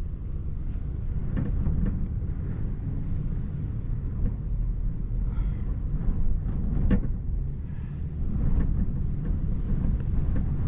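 Strong gusty wind buffeting the microphone: a steady low rumble with no clear pitch.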